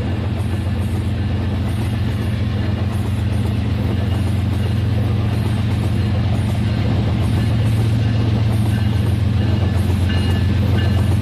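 Rail King toy train's small electric motor and gears running steadily along its track, a loud continuous hum.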